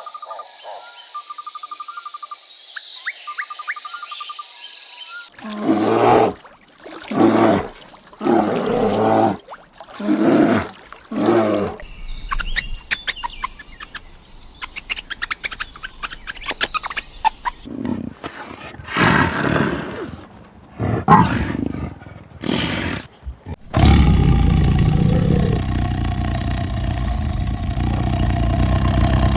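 A big cat roaring in a series of rough calls, about one a second, with bird chirps and trills before and between the roars. A steady loud noise fills the last few seconds.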